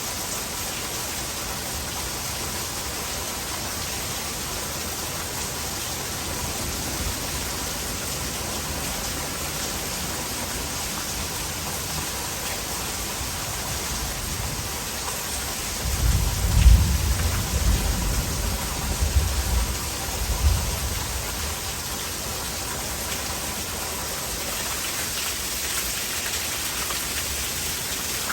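Heavy rain falling steadily. A low rumble of thunder rolls in a little past the middle, lasting about five seconds, and is the loudest sound.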